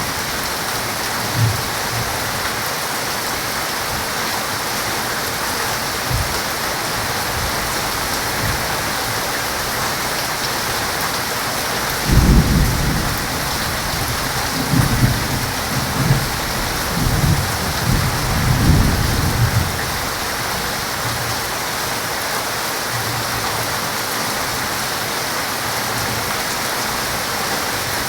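Heavy rain pouring steadily, with a low rumble of thunder rolling through the middle: a deep crack about twelve seconds in, followed by several more rumbles over the next eight seconds.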